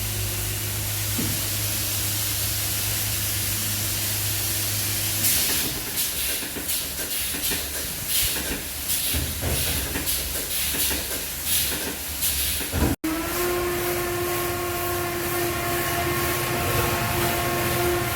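Car wash machinery: a steady hum, then water spray hissing in irregular gusts from about five seconds in; after a brief break about thirteen seconds in, a steady mechanical whine takes over.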